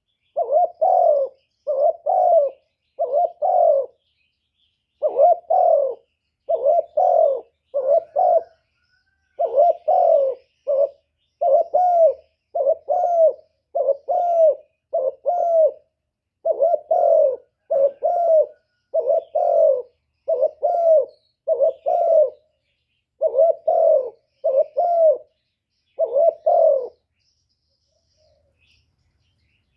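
A decoy spotted dove cooing in repeated phrases of two or three low coos. This is the call used to lure and provoke wild males. It falls silent near the end.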